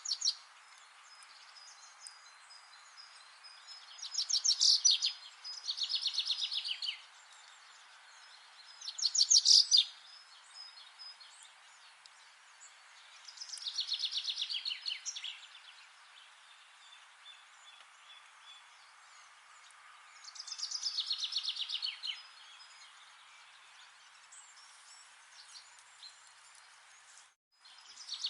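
A songbird singing a rapid, slightly falling trilled phrase about a second long, five times at intervals of a few seconds, over a steady background hiss. The sound cuts out for a moment near the end.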